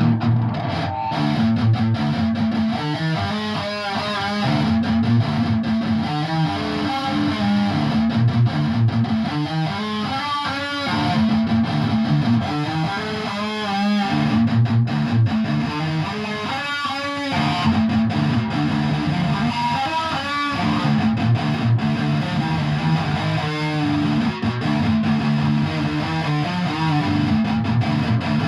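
Guitar playing: steady held low notes, with wavering, bending higher notes coming in at intervals.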